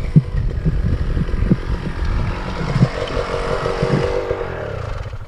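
Two-stroke dirt bike engine running on a bumpy trail, with knocks from the ground and wind on the camera mic. The engine note drops near the end and dies away as the bike slows to a stop.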